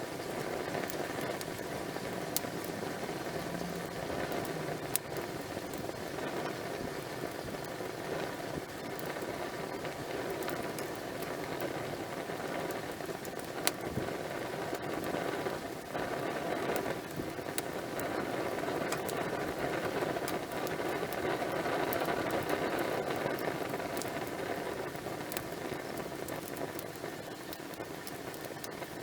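Wood fire burning in a campfire: a steady hiss and crackle with scattered sharp pops.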